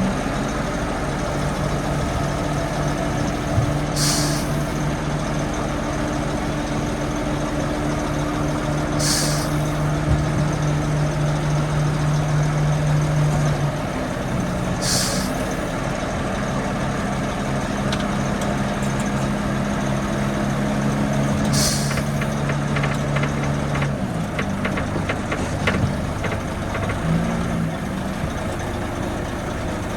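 Heavy diesel earthmoving machinery running steadily, its engine note shifting in pitch a couple of times, with four brief sharp hisses of air spaced about five to six seconds apart and a stretch of rapid clatter near the end.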